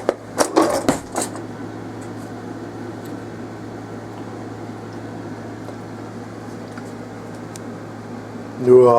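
A spoon clinking against metal cutlery and dishes as it is picked out, for about the first second. Then a steady low hum carries on. Near the end a loud drawn-out vocal sound begins.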